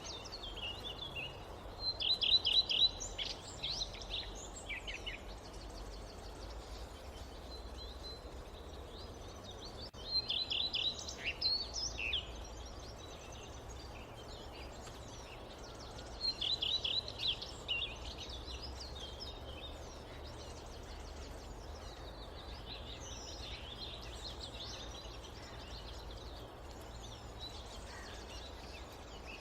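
Forest ambience: a songbird sings a quick phrase of rapid chirping notes three times, roughly every seven seconds, with fainter bird calls in between over a steady low background rumble.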